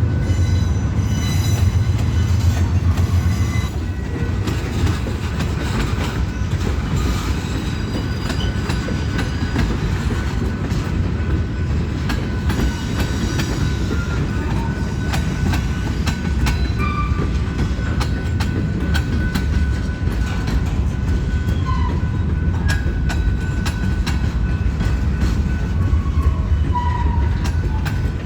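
Slow-moving BNSF freight train rolling past, a steady low rumble with frequent clicks of the wheels over the rail and brief high wheel squeals here and there.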